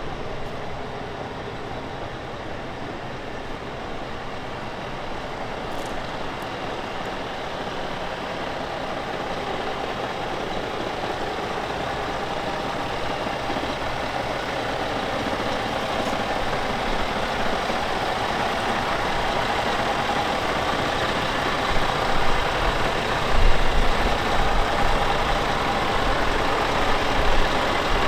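Scania G440 truck's diesel engine running steadily, growing gradually louder, with a few deeper rumbles near the end.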